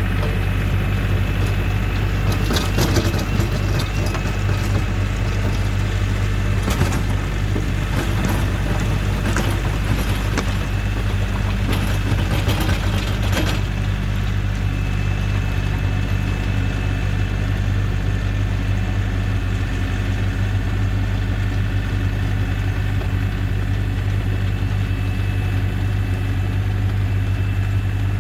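Compact tractor's diesel engine running at a steady speed. Over the first half there is a run of scattered clattering knocks, which stop about halfway through, leaving the engine running on its own.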